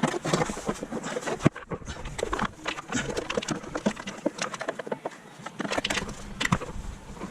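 Workshop clatter of tools and parts being handled: irregular clicks, knocks and rattles, with sharper knocks about a second and a half in and near six and a half seconds, over a faint steady hum.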